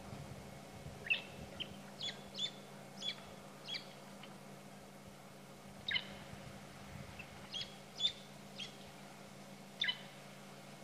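A bird calling in short, sharp downward-sweeping chirps, about ten of them in two loose series, over a faint steady low hum.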